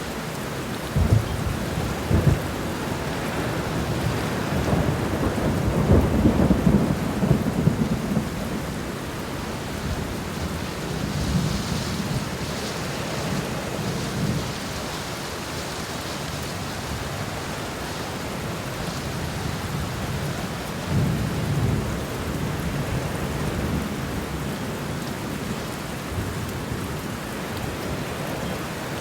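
Steady rain with thunder rumbling several times, the deepest and loudest roll about six seconds in and another about three-quarters through.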